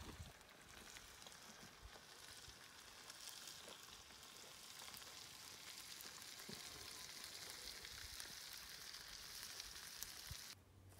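Diced potatoes and yams sizzling in a skillet on a portable gas stove: a faint, steady frying hiss with small crackles that builds slowly and cuts off suddenly near the end.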